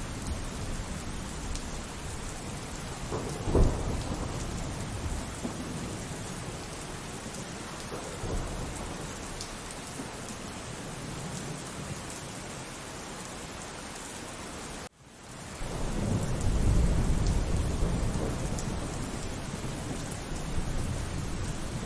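Steady rainfall with thunder: a sharp thunderclap about three and a half seconds in, then a long low rolling rumble in the second half. Just before the rumble, the sound cuts out for an instant.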